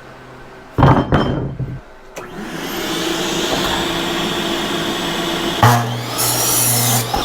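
An electric power tool runs in a steady stretch, with a short loud burst about a second in and a lower, stronger hum near the end.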